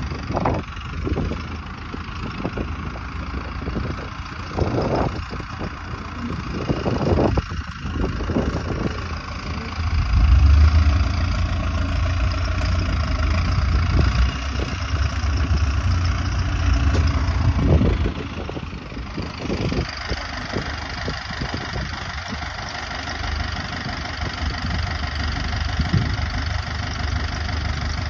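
An engine running steadily, with a heavier low rumble from about ten seconds in that eases off near eighteen seconds, and scattered knocks and bumps.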